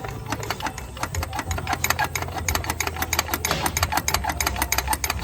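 Ford Taurus engine running with a fast, even run of sharp clicks or knocks over a low hum, attributed to bad motor mounts.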